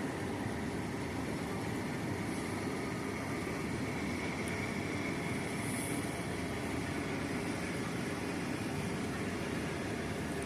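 A boat's engine running steadily underway, a constant low rumble with no changes.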